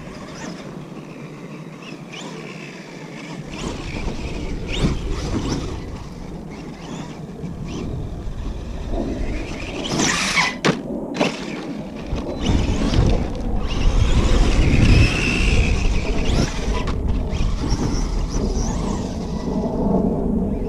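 Electric Kyosho USA-1 RC monster truck running on 4S over dirt and rock: the motor whines as it speeds up and slows, with tyres scrabbling and knocks from the truck. It gets louder about two-thirds of the way in, with a deep rumble underneath.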